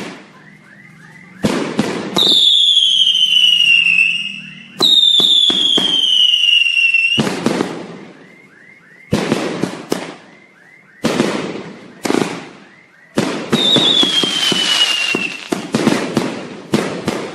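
Fireworks going off, a sharp bang every second or two, each with a short echoing tail. Three whistling fireworks can be heard among them, each a shrill whistle that falls slowly in pitch over about two seconds.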